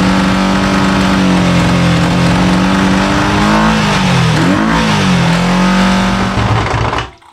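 Kawasaki GPz400R's rebuilt inline-four engine running steadily. About four seconds in its pitch dips and wavers, then recovers, and just before the end it cuts out suddenly and stalls. The owner suspects bad fuel.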